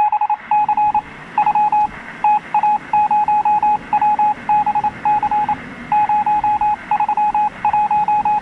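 Electronic beeping at one steady pitch: quick, irregular runs of short and longer beeps with brief pauses between the groups.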